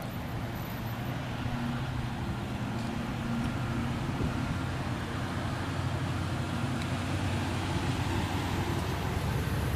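Steady motor-vehicle noise with a low engine hum.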